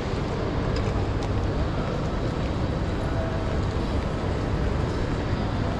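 Passenger train running along the line, a steady low rumble of wheels and running gear on the rails with a few faint clicks.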